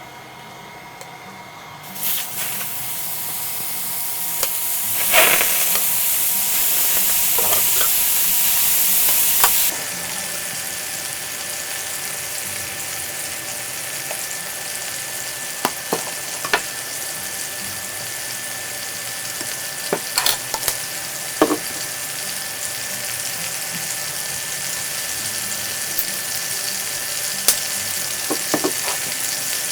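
Food sizzling and spitting on an electric grill, with a steady hiss that swells about two seconds in, is loudest for a few seconds, then settles. Scattered sharp clicks and taps sound over it.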